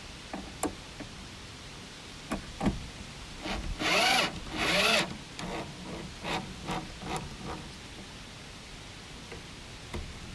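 Power drill run in short trigger bursts against wood: two longer runs about four seconds in with the motor pitch rising and falling, then a string of brief pulses, with a few clicks and knocks of handling around them.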